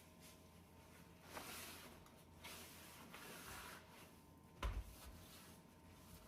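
Faint cleaning sounds on a stove or oven: a few soft rubbing strokes and one sharp knock about four and a half seconds in.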